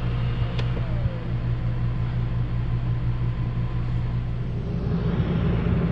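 12-volt dual-head RV ceiling fan running, a steady whir over a low hum.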